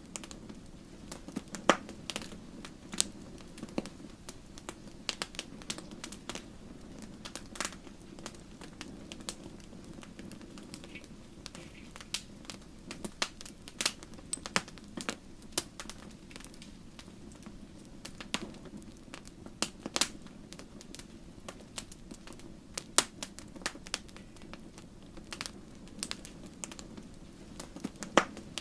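Wood fire burning in a fireplace: logs crackling with irregular sharp pops, several a second, over a steady low rush of flame.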